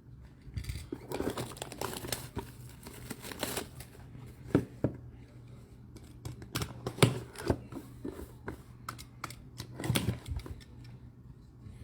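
Plastic wrapping crinkling and tearing as a sealed trading-card box is opened, with scattered sharp clicks and taps of handling.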